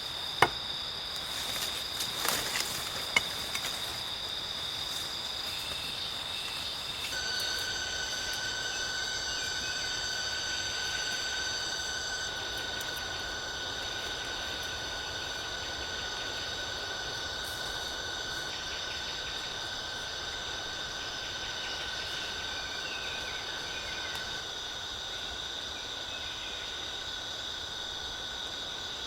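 A forest insect chorus of several steady, high-pitched trilling tones holding on and overlapping, with more voices joining about seven seconds in. A few sharp clicks or snaps come in the first few seconds.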